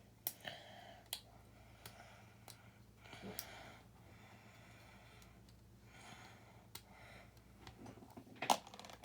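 Small plastic building bricks clicking as pieces are handled and pressed together. The clicks come irregularly every second or so, with a louder cluster of snaps near the end.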